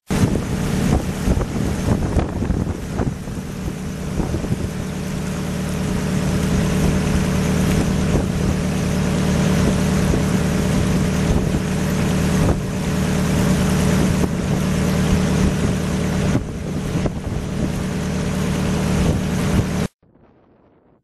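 Loud, steady rushing noise with a low engine-like hum, typical of a vehicle running with wind buffeting the microphone. It cuts off suddenly near the end.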